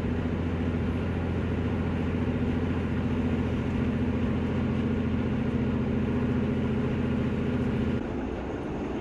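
Northern Class 150 diesel multiple unit running along the line: a steady diesel engine drone over rail noise. About eight seconds in, the engine note drops away and the sound gets quieter.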